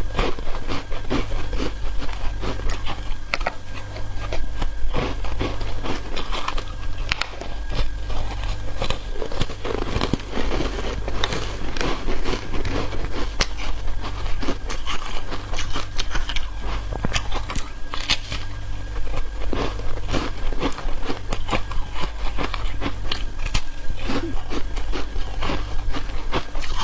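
Foam ice coated in matcha powder being bitten and chewed close to the microphone: continuous, dense, irregular crunching and crackling, over a steady low hum.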